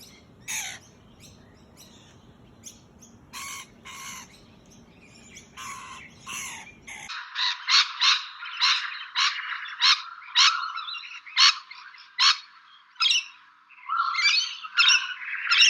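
Rainbow lorikeets calling in short, shrill squawks: scattered calls over a low background noise at first, then about halfway through a denser run of louder calls, roughly two a second.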